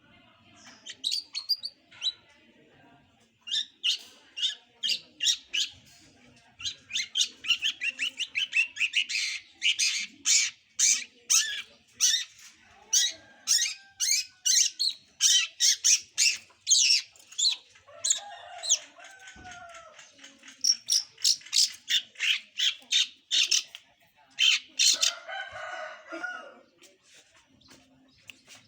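A juvenile long-tailed shrike practising its song: long runs of rapid, sharp, high-pitched notes, broken by a few lower, harsher chattering phrases.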